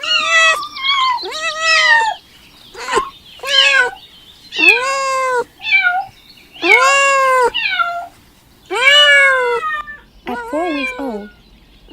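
Four-week-old kittens meowing, about nine high, arching meows one after another with short gaps; the last one, near the end, is lower.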